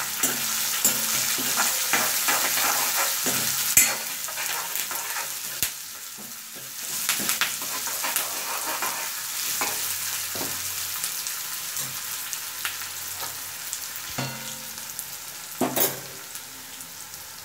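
Chopped onion, green chilli and ginger sizzling in hot oil in a metal kadai (wok), stirred with a spatula that scrapes and clicks against the pan, with a few sharper knocks about four seconds in and near the end. The sizzle is louder in the first few seconds.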